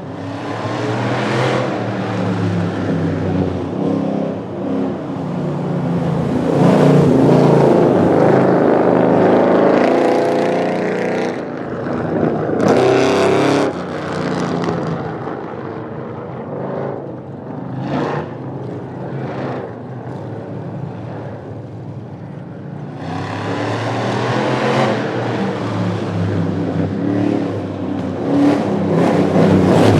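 Drag-racing cars accelerating hard down the strip, engines revving loudly. The engine noise swells twice, once in the first half and again near the end.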